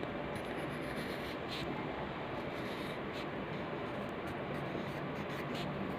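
Pencil scratching on paper in short, irregular strokes over a steady background hiss.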